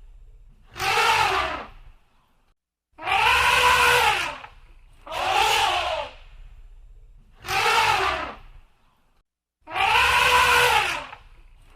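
A cat meowing loudly and repeatedly: five long, drawn-out meows about two seconds apart, each rising then falling in pitch.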